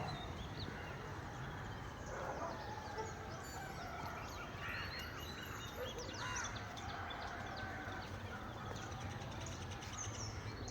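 Several birds calling and chirping at once: many short chirps throughout, with a couple of louder calls about five and six seconds in.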